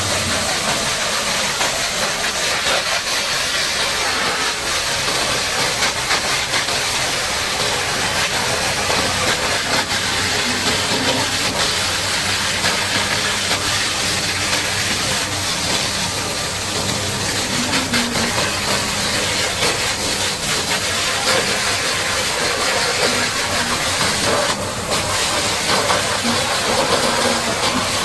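High-pressure water spray hissing steadily while washing down a bulldozer. A low engine hum cuts off about half a second in.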